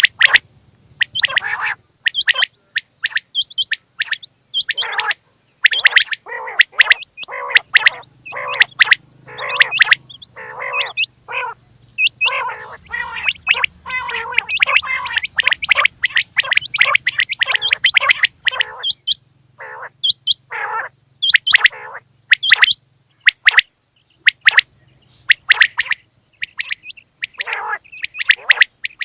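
Female quail calling: a long run of short, sharp call notes, sometimes spaced and sometimes coming rapidly several a second, thickest in the middle stretch.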